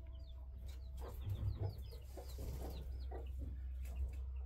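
Faint bird calls, a scatter of short clucks and chirps, over a steady low hum.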